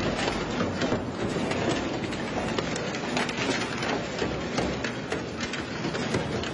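Industrial metal shredder tearing through scrap metal: a continuous dense clatter of irregular knocks and grinding, with no pause.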